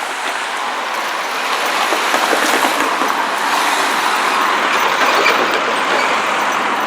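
Steady vehicle noise at a railway level crossing, growing gradually louder, with a few faint knocks in the middle.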